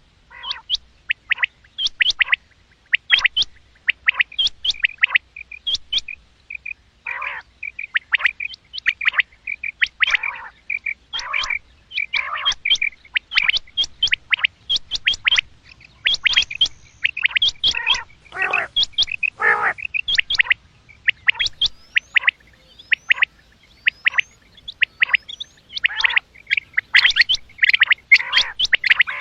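Common quail calling: a dense run of short, sharp chirping notes repeated over and over, with some held notes and a few quick rising whistles in between.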